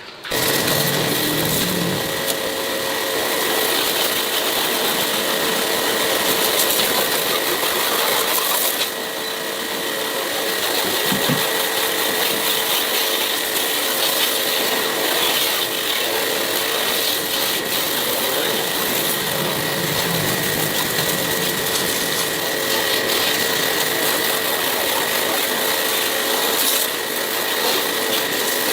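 A small motor-driven power tool running steadily with a constant whine, its level dipping briefly about nine seconds in.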